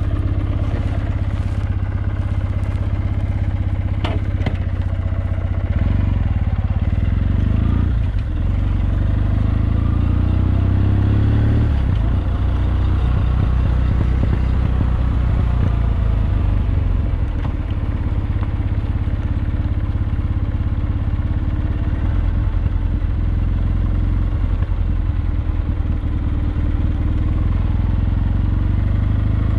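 Kawasaki W650's air-cooled parallel-twin engine running steadily under way, its pitch dipping and rising again about 8 and 12 seconds in.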